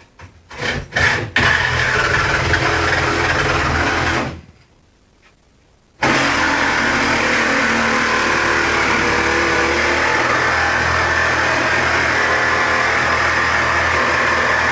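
Electric power tool triggered in a few short bursts, then running steadily for about three seconds; it stops, and about six seconds in it starts again abruptly and runs steadily.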